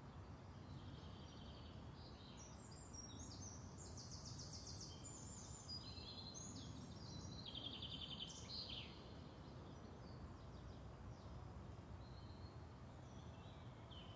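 Faint outdoor ambience with small birds singing: high chirps and quick trills, busiest in the first nine seconds or so, over a low steady background hum.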